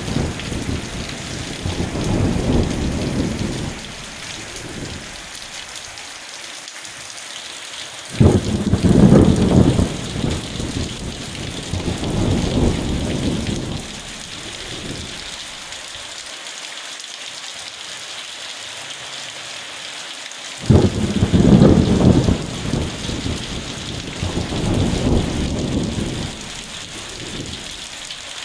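Steady rain falling, with thunder rumbling over it: a rumble fades out at the start, and fresh rumbles break in about eight seconds in and again about twenty seconds in, each swelling a second time a few seconds later.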